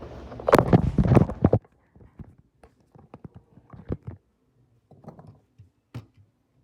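Handling and tool noise on a plastic portable speaker being taken apart. A loud, dense stretch of knocking and scraping lasts about a second and a half and stops abruptly, followed by scattered light clicks and taps.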